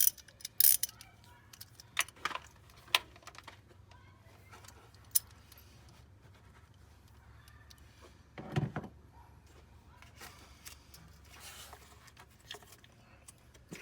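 Metal hand tools clinking and tapping: a run of sharp clicks in the first few seconds, then a duller thump about eight and a half seconds in, over a faint steady hum.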